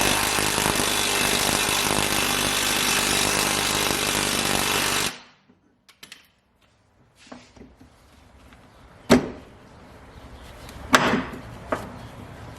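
A power tool runs loudly and steadily for about five seconds, then cuts off suddenly. Two sharp knocks follow, one around nine seconds in and a louder one near the end.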